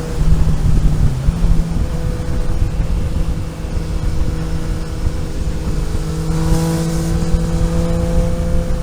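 Vehicle engine running steadily on a road drive over heavy low road and wind rumble, its note rising slowly in the second half as it picks up speed.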